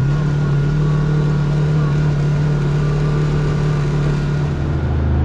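Kawasaki KRX side-by-side's parallel-twin engine running steadily under way on the trail; about four and a half seconds in its note drops lower as the revs fall.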